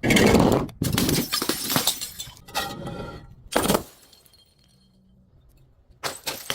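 A glass bottle smashing: a loud shatter at the start, then crunching and tinkling of glass shards, and a second smash about three and a half seconds in. Two smaller knocks come near the end.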